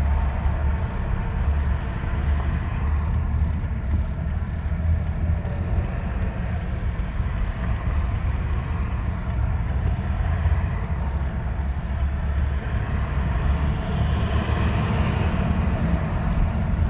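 Steady low vehicle rumble with a noisy hiss above it, growing a little brighter near the end.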